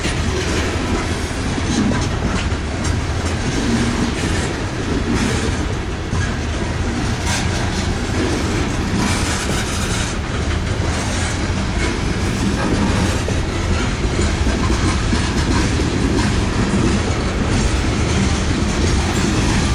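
Coal cars of a freight coal train rolling past close by: a steady rumble with the clack of wheels over the rail joints.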